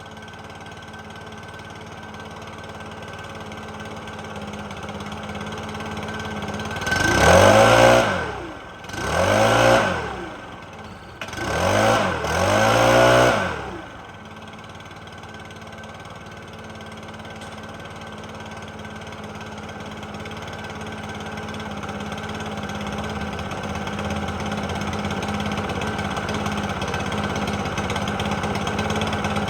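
Stihl BR600 backpack blower's two-stroke engine idling, revved up and back down four times in quick succession about a third of the way in, then settling back to idle and slowly getting louder.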